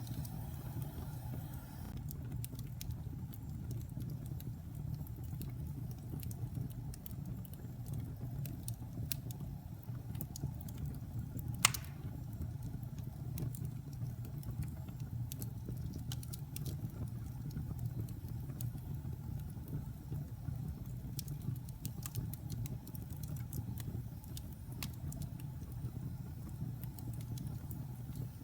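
Wood fire in a fireplace crackling, with scattered small pops over a steady low rumble and one loud, sharp pop near the middle.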